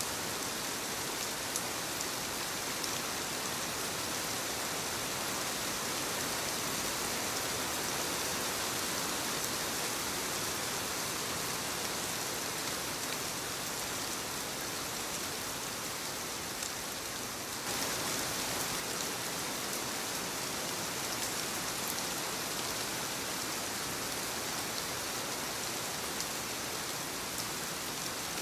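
Soft rain falling on leaves: a steady hiss of many small drops with a few sharper individual drips. About two-thirds of the way in the sound shifts abruptly, a touch louder.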